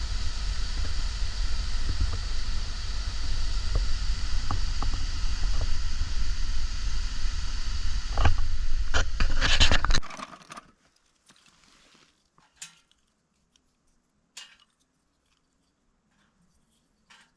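Wind buffeting the microphone, a heavy rumble under a rushing noise, with a run of crunchy clicks near the end of it. It cuts off abruptly about ten seconds in, leaving near silence broken by a few faint clicks.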